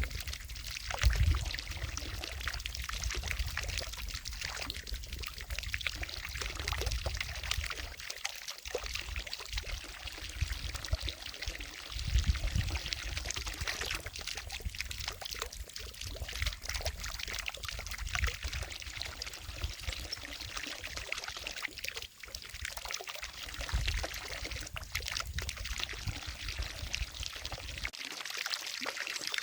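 Fountain water falling and splashing into a lake, a continuous pouring sound. A few low rumbles come through, about a second in and again around twelve seconds.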